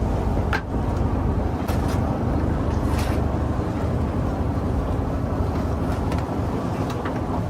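Fishing boat's engine running steadily, a low rumbling hum, with a few sharp knocks or clicks on board.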